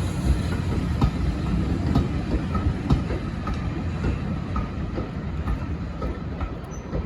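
A passing train's wheels clicking over the rail joints, about once a second, over a steady low rumble that slowly fades.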